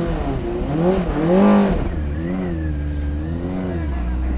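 Motorcycle engine idling with a steady low rumble and being revved in short throttle blips. The pitch rises and falls several times, and the biggest rev comes about one and a half seconds in.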